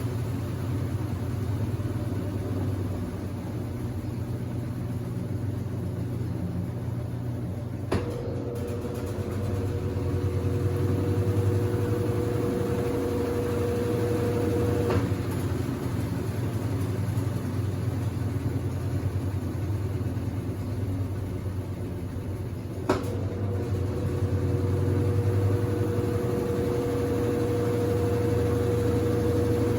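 Consul 8 kg washing machine running with a steady low hum. About eight seconds in, a click starts a steadier higher-pitched hum that stops with another click about seven seconds later. A second click starts that hum again near the end.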